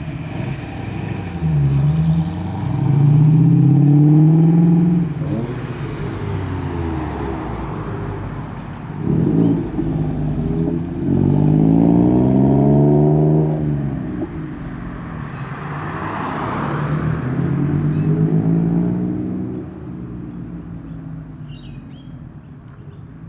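Performance cars driving in one after another, their engines revving up and easing off in three loud passes. Short bird chirps come in near the end.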